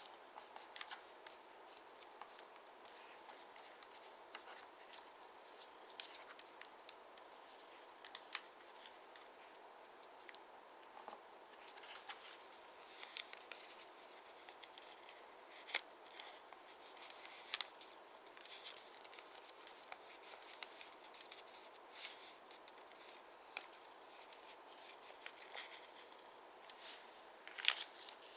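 Origami paper being handled, folded and creased: faint scattered paper rustles and crisp ticks over a steady hiss, with a louder cluster of ticks near the end.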